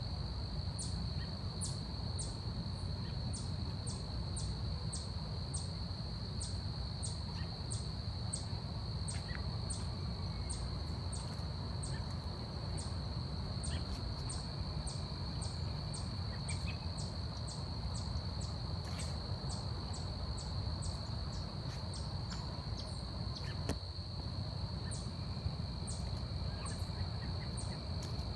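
Forest insects: a steady high-pitched drone with a train of very short, very high chirps, about one and a half a second, over a low steady rumble. A faint held bird whistle comes in twice in the second half.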